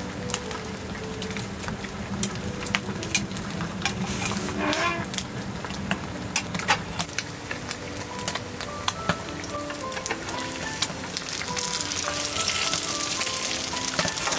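Eggs and sausage patties frying in pans on a wood stove: a steady sizzle with many scattered sharp pops, growing louder near the end. A light melody plays underneath.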